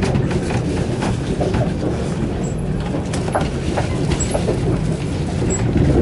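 Express passenger train running on rails, heard from inside a coach: a steady rumble with irregular clicks and knocks from the wheels on the track.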